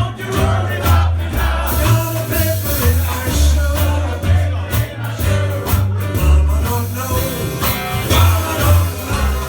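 Live band playing a Cajun song, with singing over a pulsing bass line and drum hits.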